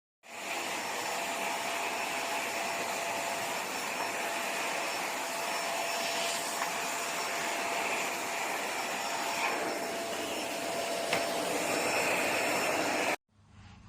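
Vacuum cleaner fitted with a floor brush head, running steadily with a thin whine in its rush of air. It cuts in abruptly just after the start and cuts off suddenly shortly before the end.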